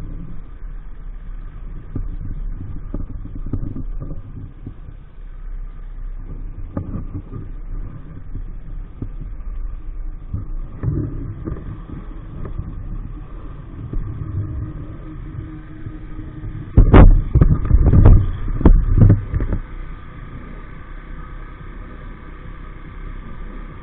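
EAYS Pro 50cc moped engine running steadily under way, with a low rumble and a steady thin whine. About seventeen seconds in comes a brief cluster of loud thumps and rumbling lasting a couple of seconds.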